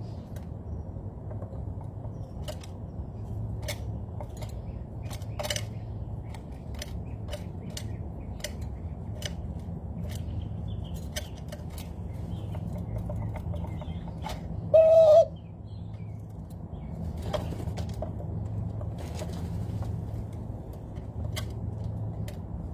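Scattered sharp clicks and a steady low rumble, with one loud bird call lasting about half a second midway through.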